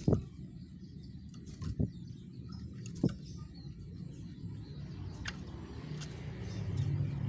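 Faint, scattered chirps of a rengganis bird over a steady low rumble that swells near the end, broken by three sharp knocks: one at the start, one just under two seconds in and one about three seconds in.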